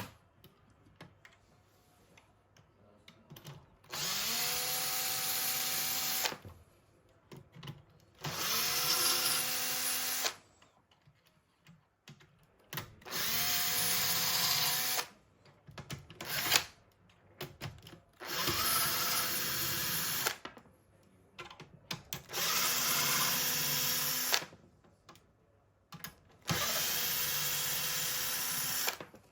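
Small electric motor run in six short bursts of about two seconds each. Each burst spins up quickly, runs at a steady pitch and then cuts off.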